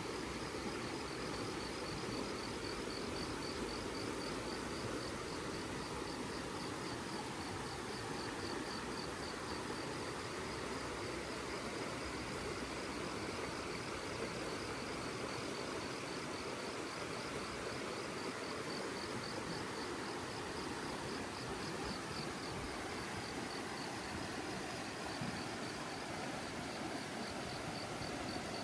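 Insects, crickets by the sound, chirring in a fast, steady pulsing trill over a steady rushing noise.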